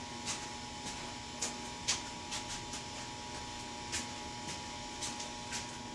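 A steady electrical-sounding hum, one low tone and one higher one, with a few soft clicks and rustles scattered through it.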